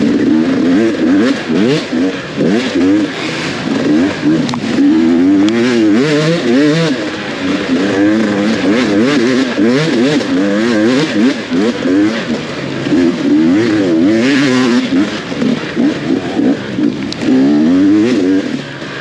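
Off-road motorcycle engine revving up and down rapidly and continuously, its pitch rising and falling every second or so as the throttle is worked, with scattered clicks and knocks over it.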